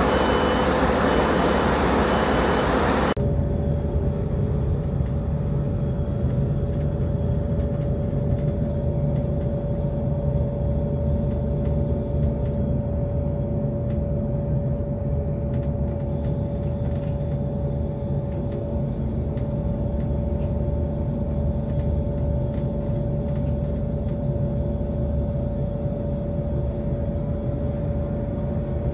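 Train running, heard from inside the carriage: a steady low rumble with a steady mid-pitched hum. It opens with about three seconds of loud rushing noise that cuts off suddenly.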